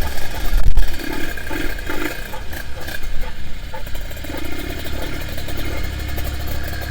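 Vehicle engine running steadily at low speed, with a loud low rumble in the first second.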